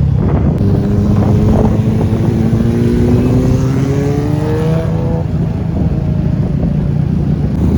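Motorcycle engine running under way, its note climbing gradually for a few seconds as it speeds up, over a steady low rumble.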